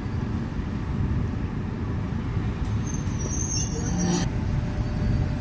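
EP1M electric locomotive giving a steady low rumble. About three seconds in there is a brief high-pitched squeal and hiss lasting about a second, which cuts off suddenly.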